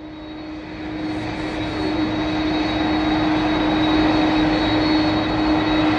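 Jet airplane's engines running, growing louder over the first two seconds and then holding steady, a low rumble under a steady hum and a thin high whine.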